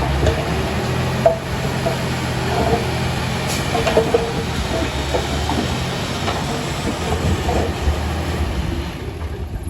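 Komatsu D31A crawler bulldozer's diesel engine running while its steel tracks clank and squeak as it moves.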